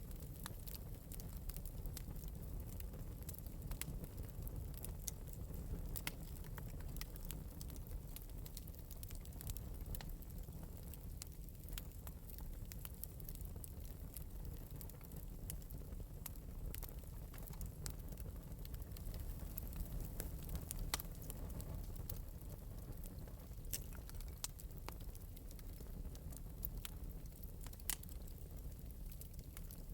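Small wood fire in an open metal fireplace crackling lightly: scattered sharp pops and snaps over a steady low rumble of burning.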